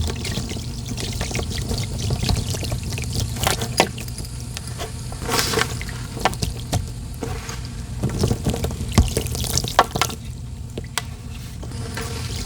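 Sand poured by hand into water: an irregular wet trickle broken by many small gritty ticks and splashes.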